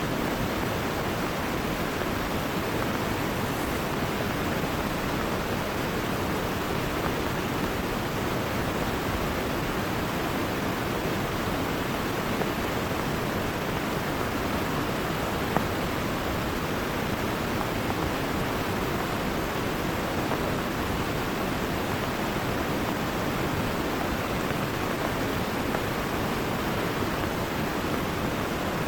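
Heavy rain falling steadily together with a rushing, flooding river: a dense, unbroken hiss.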